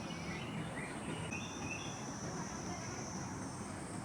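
Insects calling outdoors, a steady high-pitched drone that sets in about a second in and holds, over an even background hiss, with a few short higher chirps near the start.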